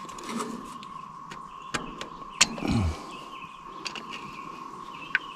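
Sharp clicks of spark plug wires and their rubber boots being handled and fitted onto a distributor cap, the loudest about halfway through. Birds chirp, over a steady high drone.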